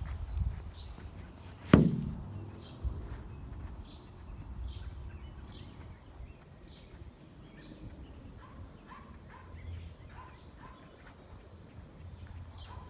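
Small birds chirping repeatedly in short, high notes, over a low rumble of wind or handling noise. A single sharp knock sounds about two seconds in, the loudest thing heard.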